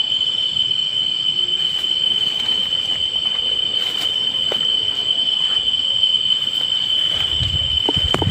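Night insects, crickets or katydids, keeping up one steady, unbroken high-pitched trill, with a few faint clicks in the background. A low rumbling noise comes in near the end.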